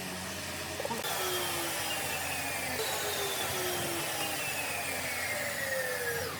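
Power tool working wood, starting about a second in. It runs for about five seconds with its pitch sinking steadily, then cuts off near the end.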